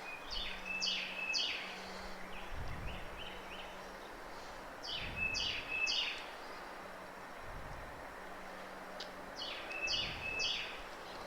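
A songbird singing short phrases of quick down-slurred notes, three times about four seconds apart, over steady faint background noise. A few soft low thuds fall between the phrases.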